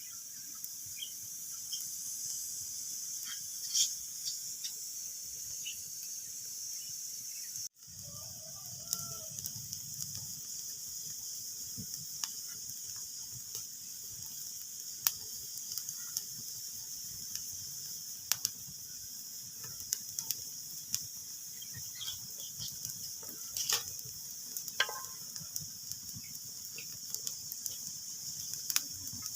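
Wood fire crackling in a fireplace: a steady hiss with scattered snaps and pops, some louder than others. The sound cuts out for an instant about eight seconds in.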